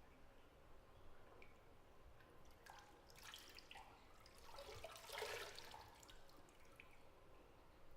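Bathwater in a tub, faint: a few drips, then a brief slosh and splash of water from about three to six seconds in, loudest around five seconds.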